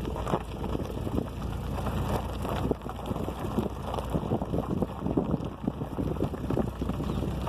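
Wind buffeting the microphone: a continuous low rumble with irregular gusts.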